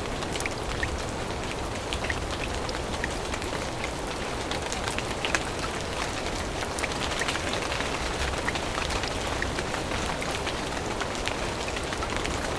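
Steady rain falling on leaves, with many small drops ticking close by.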